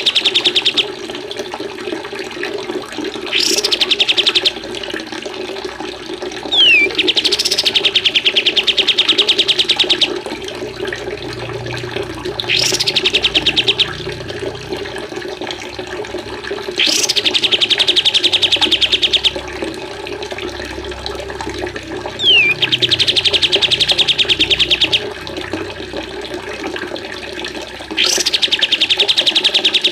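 Recorded cage-bird song: repeated fast, rattling trills, each lasting one to three seconds and coming about every four to six seconds, twice opening with a short falling whistle. Running water plays steadily underneath.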